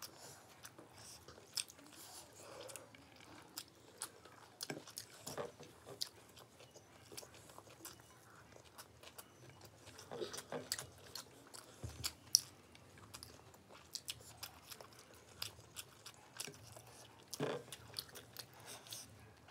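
Two people eating fried rice by hand, quietly chewing, with scattered small clicks and mouth noises and a few louder smacks.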